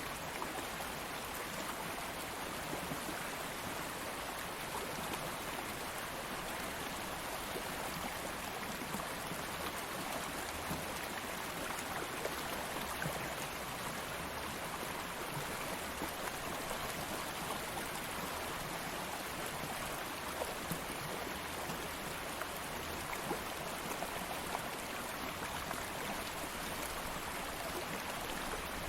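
A stream of flowing water running steadily, an even rushing with small splashes and droplet ticks scattered through it.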